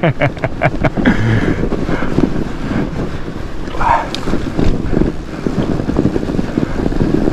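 Wind buffeting the microphone while a fat bike rolls down a snowy trail, with steady rumbling noise from the ride. There is a quick run of sharp clicks and rattles from the bike in the first second.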